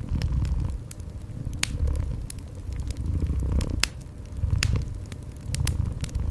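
Wood fire crackling with sharp irregular pops, over a cat's low purr that swells and fades about once a second with each breath.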